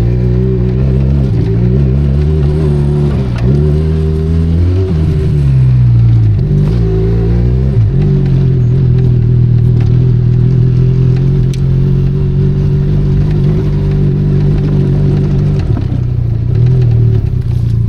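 Benelli Leoncino 500 Trail's parallel-twin engine under way off road, its pitch rising and falling through the first half as the throttle opens and closes, then holding steady. It eases off briefly near the end before picking up again, with a few sharp ticks over it.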